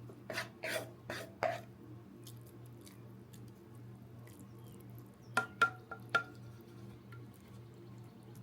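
Eating from a bowl of hot noodle soup: four short noisy sounds in the first second and a half, then four sharp clinks of a utensil against the bowl with a brief ring, a little past halfway.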